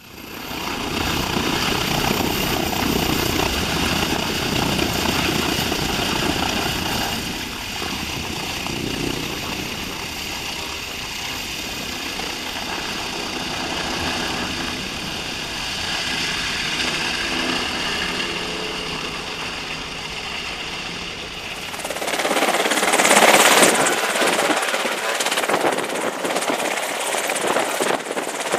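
Helicopter running: steady rotor and turbine noise. About three-quarters of the way through it changes abruptly to a louder, hissier sound with less low rumble.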